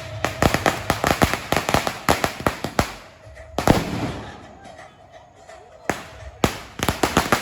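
A string of firecrackers going off in rapid, irregular cracks. The cracks thin out after about three seconds, leaving one big bang and a lull, then pick up again near the end.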